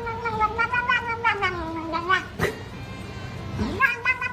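Two long, drawn-out animal calls, wavering in pitch, with a sharp click between them. The second call is shorter and falls away at its end.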